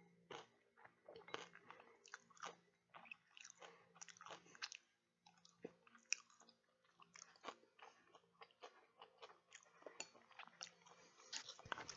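A person chewing food, with many short, irregular wet mouth clicks and smacks, several a second.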